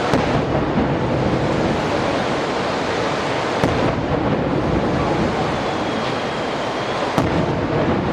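Fireworks display: a continuous rumble and crackle of aerial shells and firecrackers, with sharp bangs near the start, about three and a half seconds in, and about seven seconds in. A faint thin whistle sounds about six seconds in.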